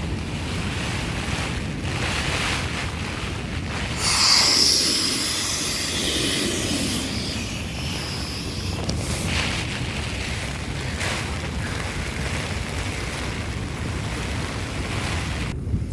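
Steady rain and wind on a tent, with wind rumbling on the microphone; a louder hissing surge comes about four seconds in.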